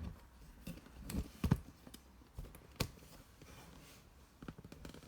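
A few sharp knocks and clicks of handling. The loudest comes about one and a half seconds in and another near three seconds, with lighter ticks near the end.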